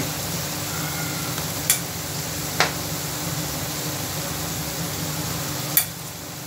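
Chopped onion and capsicum frying in oil in a kadhai, a steady sizzle, with three short sharp clicks.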